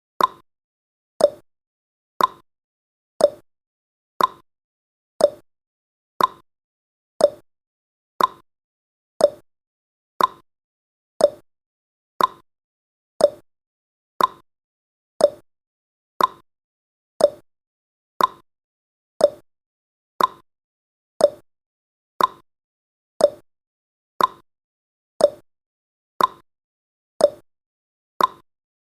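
Countdown timer's tick sound effect: a short, hollow click once every second, evenly spaced.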